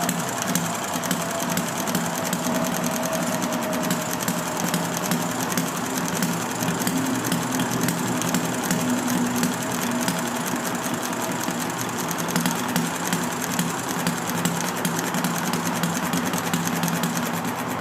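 Enjomor 6cc hit-and-miss model gasoline engine running, a steady fast mechanical clatter, just after it has caught and started firing.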